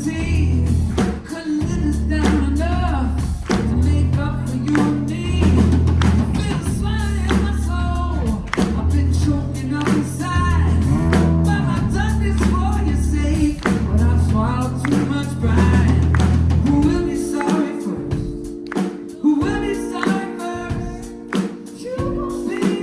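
Live pop-rock band playing with a male lead singer, drum kit, bass and guitar. About three-quarters of the way through, the heavy bass notes drop out, leaving held chords under the voice.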